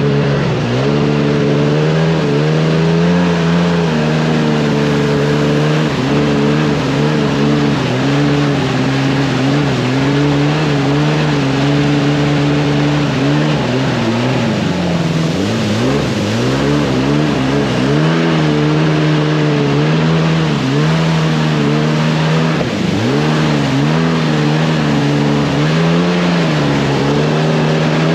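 Sea-Doo GS 720 jet ski's two-stroke engine running at high, steady revs, with the throttle eased off and reopened several times. The pitch drops and climbs back, once about halfway through and several times more toward the end.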